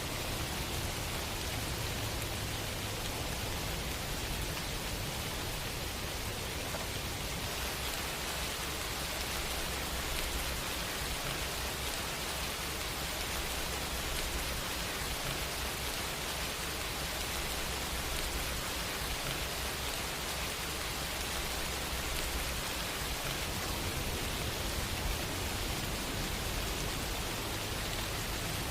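Steady rain falling, an even hiss of rainfall without pauses.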